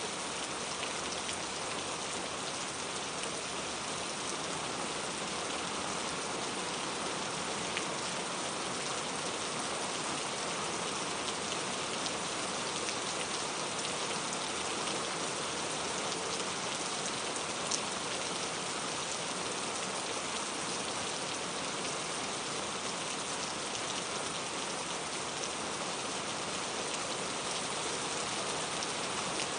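Steady rain falling, an even hiss with many small drop patters, and a single slightly louder drop tick about two-thirds of the way through.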